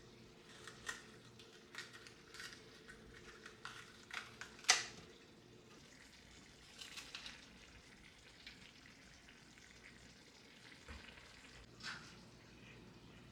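Food-preparation sounds: scattered short clicks, taps and light scrapes of utensils and cookware, the sharpest tap about five seconds in, over a faint steady hum.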